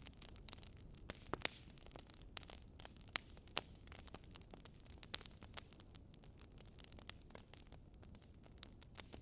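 Fire crackling in a fireplace: irregular small pops and snaps over a soft steady rush, with a few louder snaps scattered through, the loudest between about one and four seconds in.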